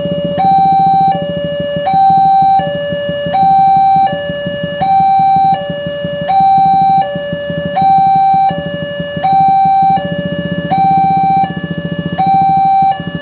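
Railway level-crossing electronic warning alarm sounding a continuous two-tone high-low signal, the pitch switching about every three-quarters of a second, with a steady low rumble underneath. The alarm warns that a train is approaching and the barriers are down.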